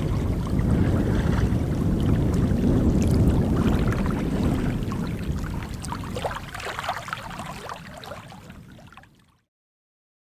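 Lochside ambience of wind rumbling on the microphone and water lapping and splashing, fading out gradually and ending in silence about nine seconds in.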